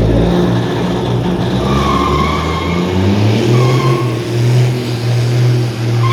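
Drag-racing vehicle's engine running hard and revving, with short high tyre squeals about two seconds in and again near the end.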